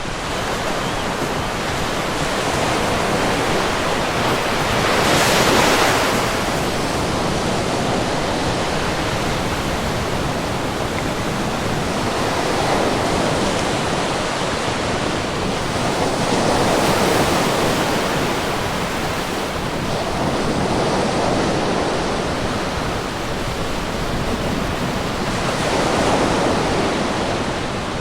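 Sea waves breaking in a continuous wash of surf, with several waves cresting and receding, the biggest about five seconds in.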